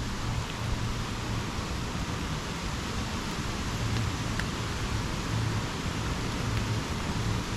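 Steady rain, an even hiss, with a couple of single louder drop ticks. A low rumble comes and goes underneath.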